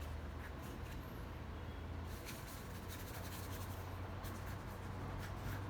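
Paintbrush dabbing and stroking paint on a painting surface: a run of short, scratchy strokes, thicker from about two seconds in, over a low steady hum.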